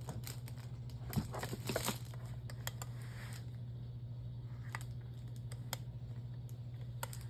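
Light clicks and handling knocks from an unplugged electric fan heater being handled, its tip-over safety switch pressed, over a steady low hum.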